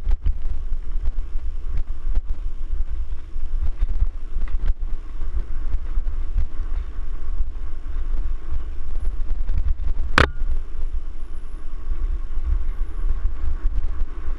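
Wind and trail rumble buffeting a bike-mounted or helmet camera microphone while a mountain bike is ridden, with one sharp knock about ten seconds in.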